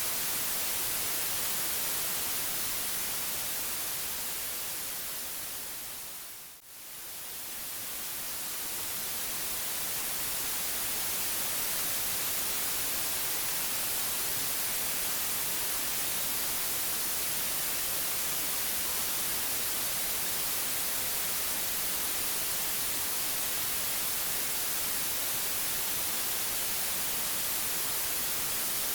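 Steady synthetic white noise, an even hiss heaviest in the high end. About six seconds in it fades down briefly and swells back up over a few seconds, as at the join of a looped track.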